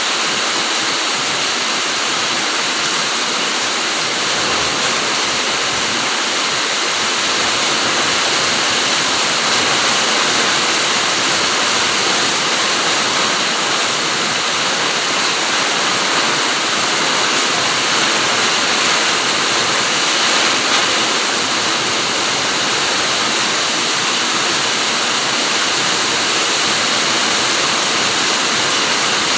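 Steady rain falling in a fruit garden: an even, unbroken hiss with no single drops standing out.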